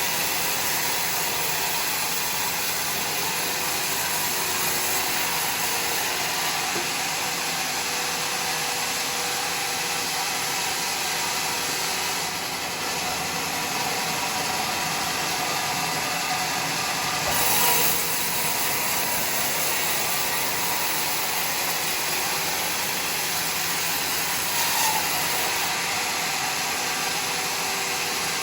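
Homemade sawmill running with a steady machine noise, with a brief louder surge about two-thirds of the way through.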